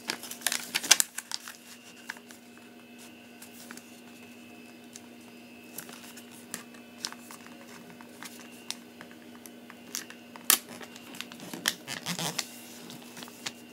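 A sheet of printer paper being folded and creased by hand: scattered rustles and crinkles, busiest in the first second and again near the end, over a faint steady hum.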